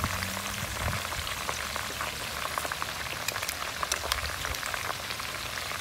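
Chicken pieces and potatoes frying in oil in an electric skillet: a steady sizzle with many small crackles and pops.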